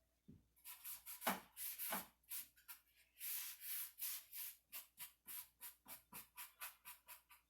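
Stain being wiped onto the cedar wood of a chest in quick back-and-forth strokes. The strokes start just after the beginning and settle into a fast, even rhythm of about three a second.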